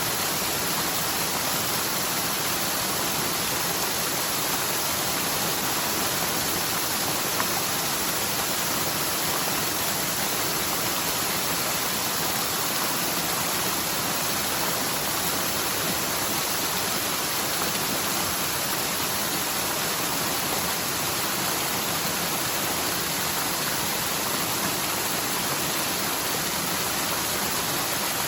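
Storm-swollen forest mountain stream rushing and splashing steadily down its bed. It is a normally near-dry channel running full after typhoon rain.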